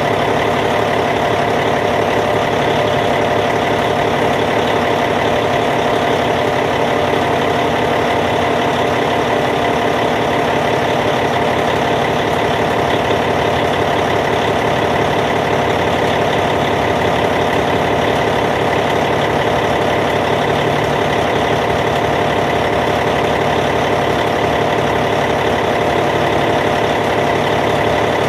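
Caterpillar C15 diesel engine of a Cat D8T bulldozer idling steadily, with no change in speed or level.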